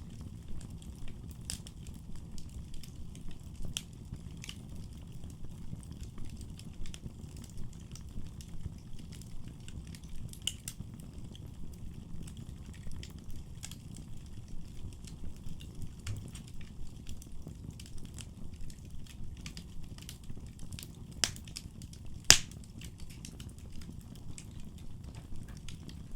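Wood fire burning in a fireplace: a steady low rumble of flames with frequent small crackles and pops, and two sharper, louder pops near the end, the second the loudest.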